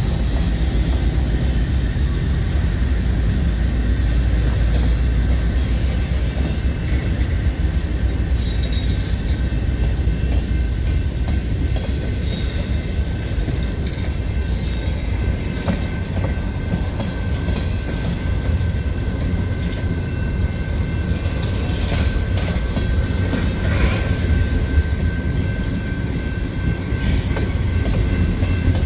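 Freight cars of a CSX manifest train rolling past close by: a steady, loud rumble of steel wheels on the rails. A thin, steady high tone joins about halfway through.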